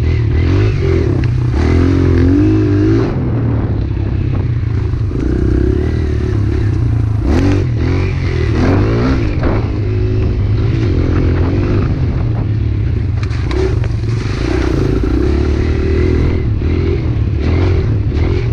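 Small pit bike engine running while being ridden, its pitch rising and falling with the throttle, with occasional brief clatters.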